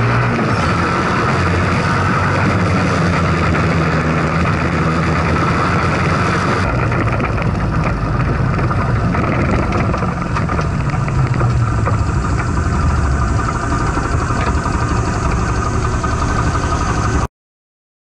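Chinese-made single-cylinder four-stroke engine of a Monkey-style minibike running through a Bike Parts Center aftermarket muffler, its pitch rising and falling with the throttle. The sound changes character about seven seconds in and cuts off suddenly near the end.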